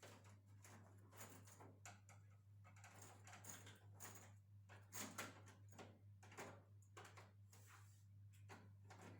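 Near silence: faint, irregular clicks and rustles over a steady low hum.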